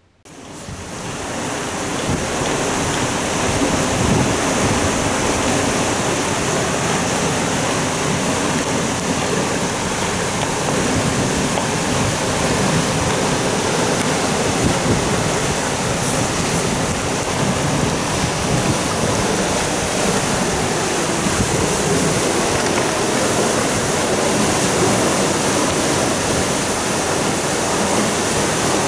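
Water rushing out through the open sluices of a canal lock as the lock chamber drains, churning the canal below. It is a steady, loud rush that fades up over the first couple of seconds.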